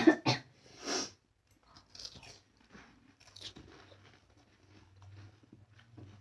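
Crisp, hollow panipuri shells crunching loudly as they are bitten in the first second, then chewed with quieter, scattered crackles.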